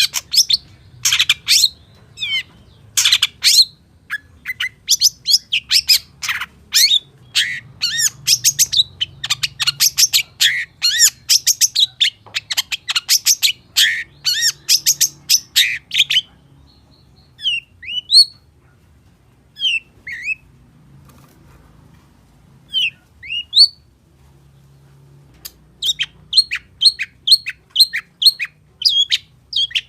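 Long-tailed shrike (cendet) singing a fast, varied chattering song packed with mimicked calls of other birds. About halfway through it drops to a few separate rising whistles, then breaks into a quick run of repeated notes near the end.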